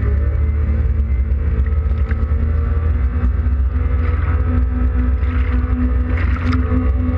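A Yamaha WaveRunner FX Cruiser High Output jet ski's engine running steadily under way, its pitch creeping slightly higher, over low rumble and water noise. Bursts of hiss come in the second half.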